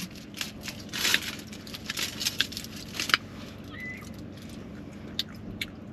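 Close-up eating sounds: a burrito being chewed with wet mouth clicks and smacks, and its foil wrapper crinkling, busiest in the first three seconds, with a few more clicks near the end.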